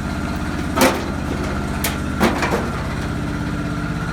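Lawn tractor's small engine running at a steady idle, with a few sharp knocks about a second in and again around two seconds in.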